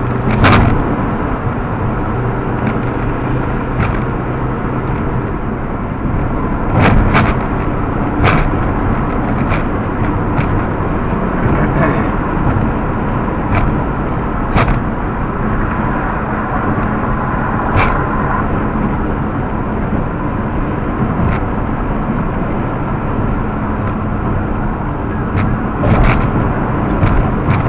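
Steady road and engine noise of a car driving on a highway, heard inside the cabin, with scattered sharp clicks and knocks.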